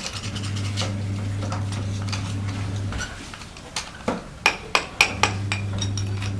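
Metal gas-stove burner parts clinking and tapping, with a run of sharp knocks about two-thirds of the way through. A steady low electric hum runs for the first half, stops, and comes back near the end.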